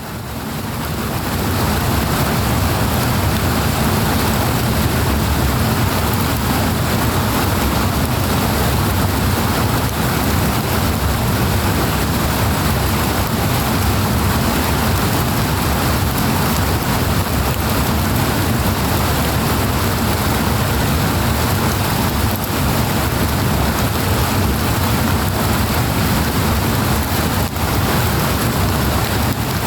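Powerful rushing water, a dense, steady roar that fades in over the first two seconds and then holds level.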